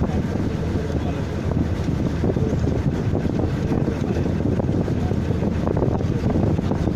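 Steady low rumble of a moving vehicle's engine and travel, with wind buffeting the microphone.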